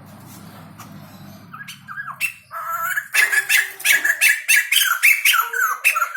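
White-crested laughingthrush (poksay jambul) giving its loud, rapid chattering call, a fast run of short squawking notes that starts about a second and a half in over a faint low hum.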